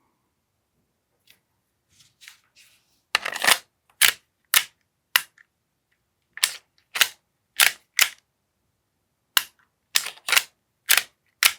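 AAP-01 gas blowback airsoft pistol firing single shots: about a dozen sharp pops, roughly half a second apart, in a few short strings with pauses between them.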